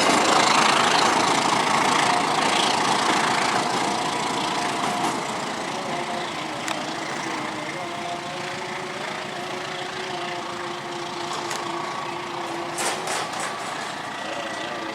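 Noise of a passing train fading away over the first few seconds, leaving a steady engine idling, with a few light clicks near the end.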